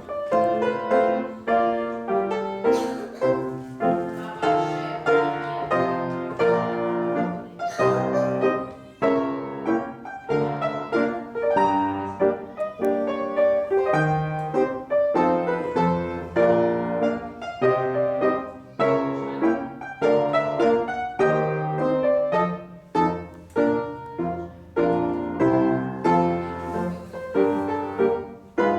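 Piano playing classical-style accompaniment for a ballet-class exercise, with a steady beat.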